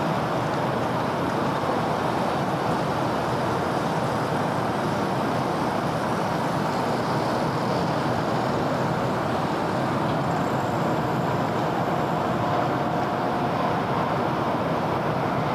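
Steady city road traffic: a continuous wash of cars and other vehicles passing, with a faint steady whine joining about two-thirds of the way in.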